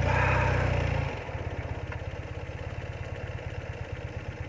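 BMW R80RT's air-cooled flat-twin engine, brought up in revs for about a second as the bike pulls away from a standstill, then running steadily at low revs.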